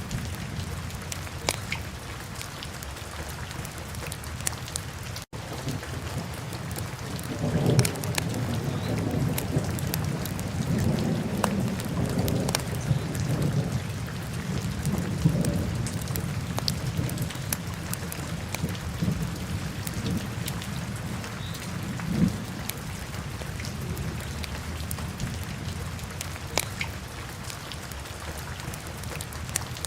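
Wood fire crackling in a fireplace, with a steady hiss and many sharp pops. A low rumble swells about a quarter of the way in and fades by about halfway, and the sound drops out for an instant about five seconds in.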